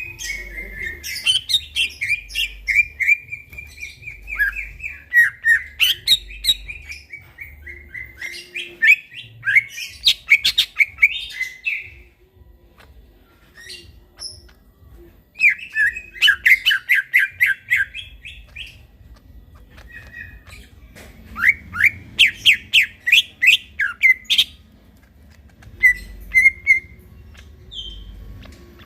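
Green leafbird (cucak ijo) singing in phrases of rapid, repeated chirping notes that pause for a second or two between phrases.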